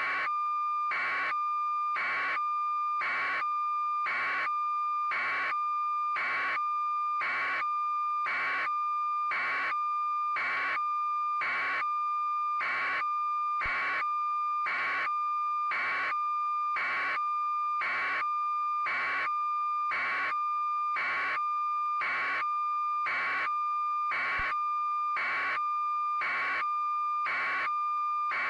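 Electronic tone: a steady high pitch with a short beep pulsing evenly about once a second.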